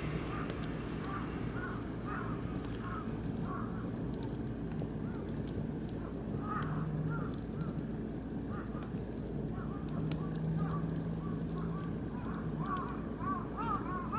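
Oak and beech wood fire crackling with scattered sharp pops, over a steady low rumble. Birds call repeatedly in short chirping notes, more often near the end.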